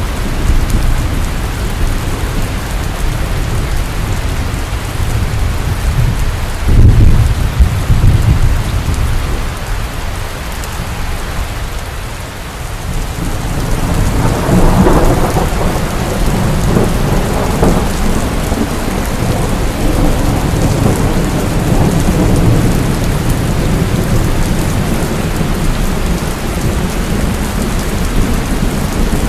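Heavy steady rain with thunder: a loud low thunder clap about seven seconds in, then a long rolling rumble of thunder that builds from about fourteen seconds and carries on under the rain.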